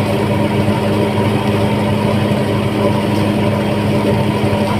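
An engine running steadily at a constant speed, giving an even, unbroken hum with a strong low drone.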